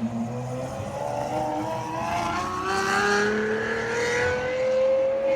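A car engine pulling hard under acceleration: the pitch drops once at a gear change right at the start, then climbs slowly and steadily in the next gear, and begins to fall right at the end as the driver lifts off.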